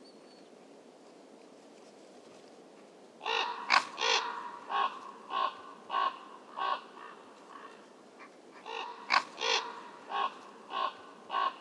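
A crow-family bird giving repeated harsh caws in two runs, the first starting about three seconds in and the second a couple of seconds after the first ends, each call short and spaced roughly half a second apart.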